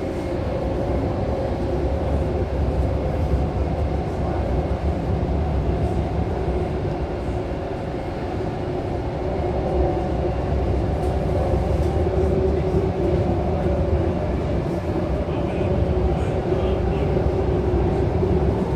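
Sydney Tangara electric train running through an underground tunnel, heard from inside the carriage: a steady rumble of wheels and traction gear with a constant hum over it.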